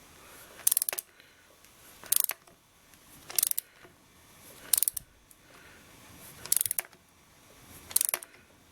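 Ratchet wrench tightening a threaded coolant temperature sensor into an engine block: six short bursts of rapid ratchet clicks, one on each back-swing of the handle.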